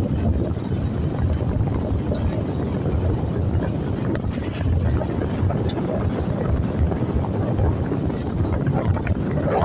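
Steady low rumble of riding along, vehicle noise mixed with wind buffeting the microphone, with no clear engine note.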